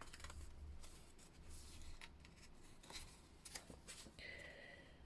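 Faint rustling and a few light taps of paper and card being handled, as journal pages and tags are moved.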